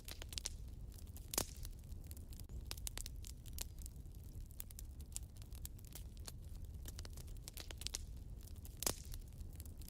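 Fireplace fire crackling: a steady run of small snaps and pops over a low rumble of flame, with two louder pops, about a second in and near the end.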